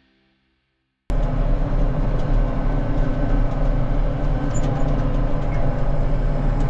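Large farm machinery engine running steadily with a heavy low rumble, cutting in abruptly about a second in after a moment of silence.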